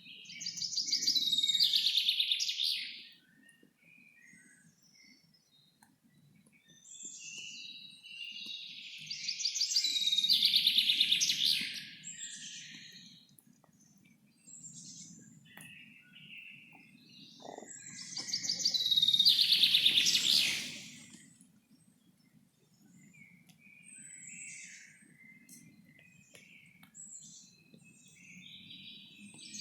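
Songbird singing loud phrases of about three seconds, three times about nine seconds apart, with quieter chirps from other birds in between. A faint low rumble of forest ambience runs underneath.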